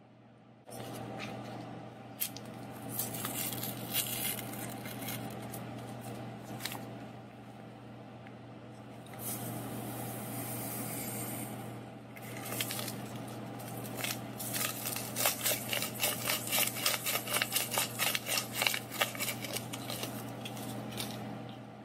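A paper packet of active dry yeast handled and rustled over a stainless steel mixing bowl, then shaken and tapped so the granules fall into the bowl, in a fast run of sharp taps through the second half.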